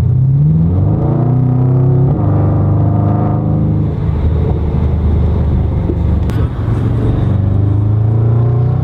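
Porsche Panamera Turbo S twin-turbo V8 through a TechArt exhaust, accelerating: the pitch climbs, drops sharply at an upshift about two seconds in, climbs again, holds steadier in the middle and rises once more near the end.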